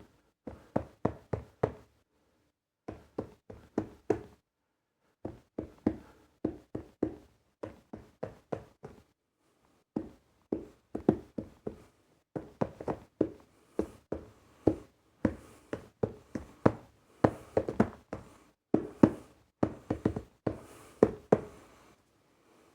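Fingers tapping on a mobile phone box in quick runs of crisp taps, several a second, broken by short pauses.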